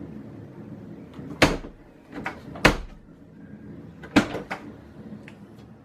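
A series of sharp knocks and clunks: three loud ones about a second and a half apart, with lighter clicks between them, like hard parts being handled or knocked shut.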